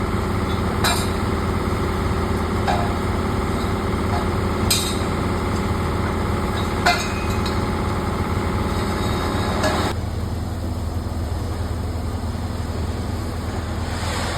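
A machine, engine-like, running with a steady drone, with sharp metallic clinks every two seconds or so. About ten seconds in, the higher part of the drone stops and a lower hum carries on.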